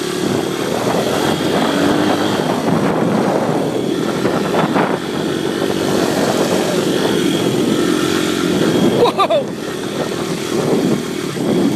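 Dirt bike engine running steadily while the bike is ridden, its note wavering slightly.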